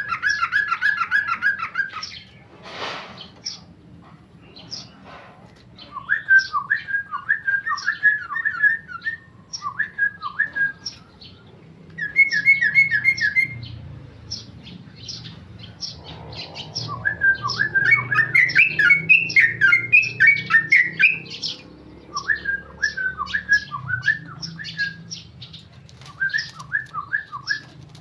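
Yellow-vented bulbul singing in bursts of quick, bubbly chattering notes, with short pauses between the phrases. The longest and loudest run comes in the middle.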